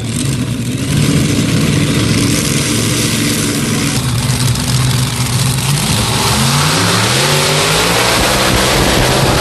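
Modified pulling tractor's engine running loud and steady, then climbing in pitch from about six seconds in as it revs up.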